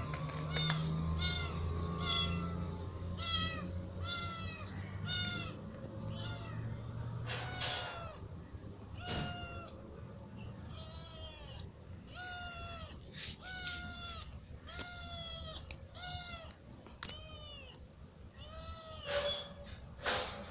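A kitten meowing over and over, about one high, pitched meow a second, each call bending down in pitch at its end.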